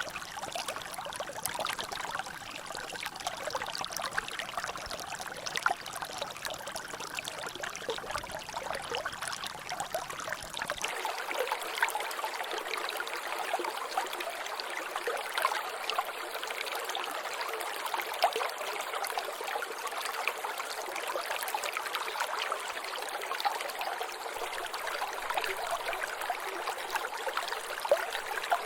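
Water trickling and dripping in a natural drainage channel: a steady flow with many small splashes of falling drops. About eleven seconds in, the low rumble beneath the water cuts out suddenly.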